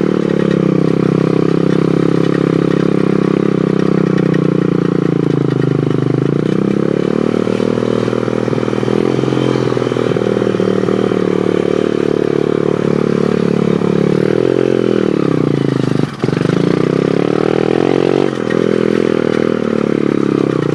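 Pit bike engine running while ridden, its pitch falling as the throttle is rolled off and rising again, about six and about fifteen seconds in, with a brief dip in level about sixteen seconds in.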